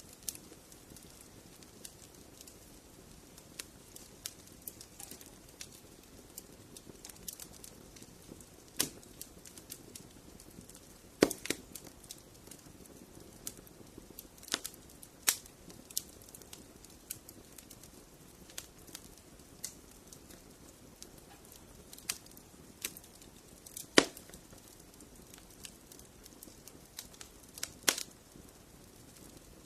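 Wood fire crackling in a fireplace: scattered sharp pops and snaps at irregular intervals, a few much louder than the rest, over a faint low steady rush.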